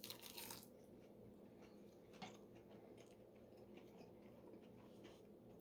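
Faint chewing and mouth sounds of someone eating, with a few soft clicks near the start and one about two seconds in.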